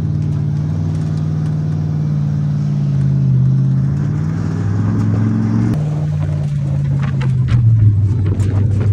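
A monster truck's engine runs while carrying riders, its pitch shifting up and down. A few sharp knocks and rattles come near the end.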